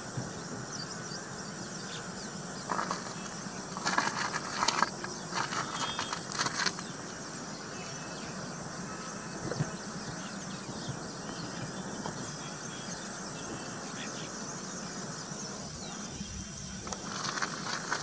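Outdoor bird-nesting ambience: steady background noise with a faint high insect drone, broken by short bursts of bird chattering, mainly a few seconds in and again near the end.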